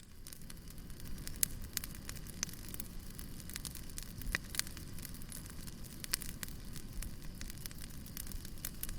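Wood fire crackling: a steady low rumble of flames with frequent irregular sharp pops and snaps, swelling up from quiet right at the start.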